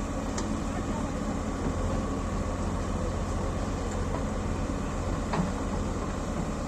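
JCB 3DX Eco backhoe loader's diesel engine running steadily while it digs, with a couple of sharp knocks, one near the start and one about two-thirds of the way through.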